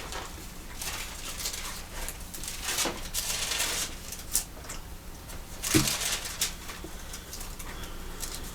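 Pages of a Bible being turned and leafed through, in soft, papery rustles with a couple of louder flurries partway through.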